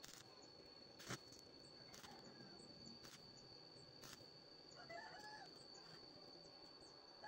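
Near silence: faint bird calls about five seconds in and again at the end, over a faint steady high whine and a few faint clicks.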